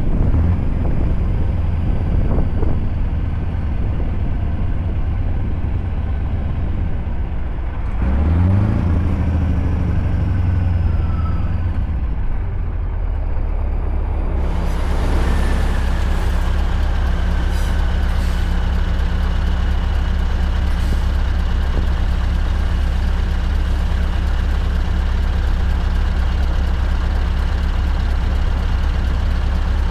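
Scania V8 truck engine running steadily. About eight seconds in, its pitch rises as the engine revs up, holds for a few seconds, then settles back to a steady drone.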